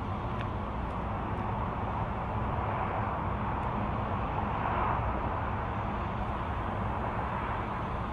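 2003 Dodge Ram 2500's 5.9-litre 24-valve Cummins inline-six turbo diesel idling steadily just after a cold start at 45 degrees, through a 5-inch straight exhaust.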